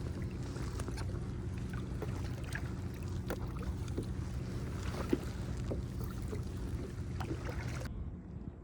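Kayak out on the water: a steady low hum with scattered small splashes and knocks.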